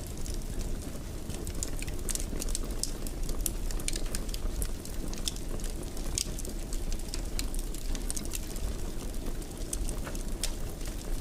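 Fireplace fire burning: a steady low rumble of the flames with many scattered sharp pops and crackles.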